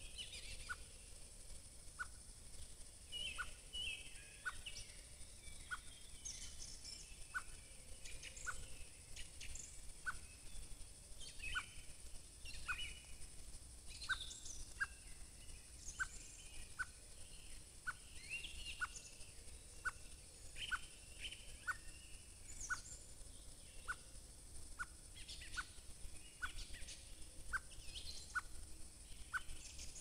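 Forest birds calling: a run of short, same-pitched notes about once a second, mixed with scattered higher chirps and trills from other birds, over a faint steady hiss.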